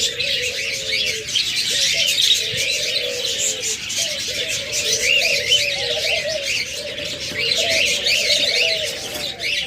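A room full of caged pet birds calling all at once: constant high chirping and chattering from small parrots such as budgerigars, over a lower wavering cooing from doves.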